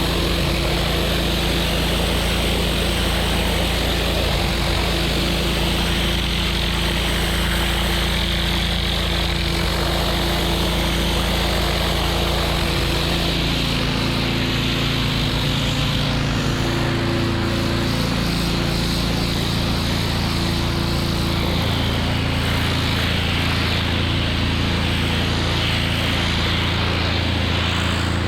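Gas-engine pressure washer running steadily, with the hiss of its water spray; the engine note shifts about halfway through.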